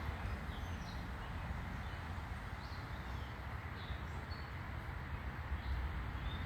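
Backyard ambience: a steady low rumble with scattered short, high bird chirps throughout.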